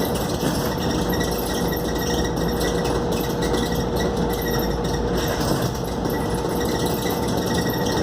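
Scania K280UD double-decker bus under way, heard from inside the passenger cabin: steady engine and road noise with a constant whine.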